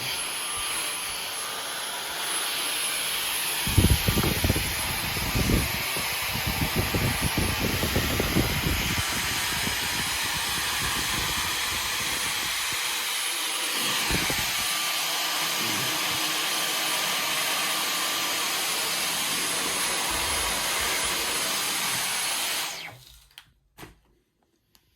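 Dyson V15 Detect cordless stick vacuum running steadily with a thin high-pitched motor whine. Several seconds of low thumps and bumps come early on. It stops abruptly near the end, followed by a couple of clicks.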